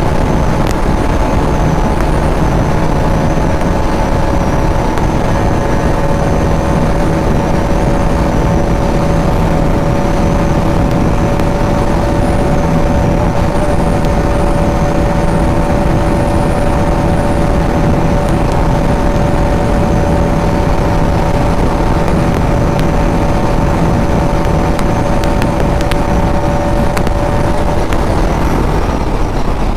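Bajaj Pulsar NS200's single-cylinder engine running flat out at a steady, unchanging pitch during a top-speed run, over a dense rush of wind and road noise. The engine note drops away near the end.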